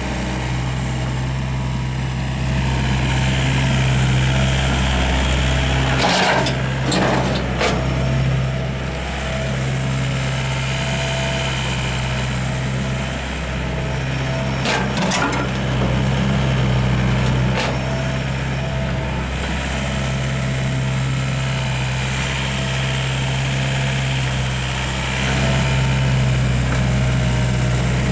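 Volvo EW55B wheeled excavator's diesel engine running steadily, growing louder and easing off a few times as the machine works. A few sharp clanks come about a quarter of the way in and again around the middle.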